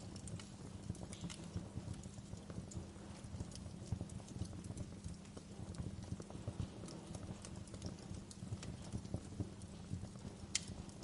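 Fire burning, a low steady rumble with scattered crackles and small pops, and one sharper pop near the end.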